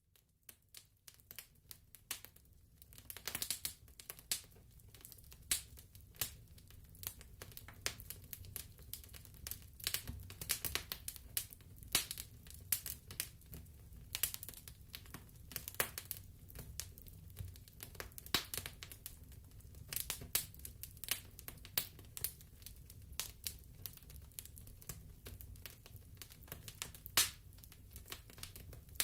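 Wood fire in a fireplace crackling: irregular sharp pops and snaps over a low, steady rumble of the flames, fading in from silence at the start.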